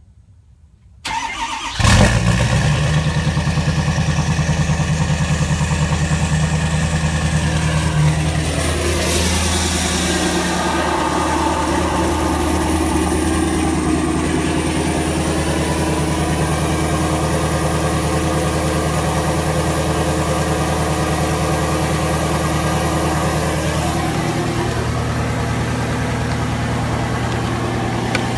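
2014 Ford F-250's 6.7 L Power Stroke V8 turbodiesel cold-starting at about 9 °F through a 4-inch turbo-back exhaust: a brief crank, then it catches about two seconds in and settles into a loud steady idle. A high turbo whistle rises from about eight seconds in and holds, and the idle note shifts lower near the end.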